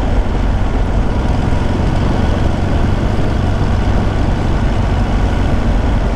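Ducati motorcycle's L-twin engine running steadily while the bike cruises at town speed, heard from the rider's seat.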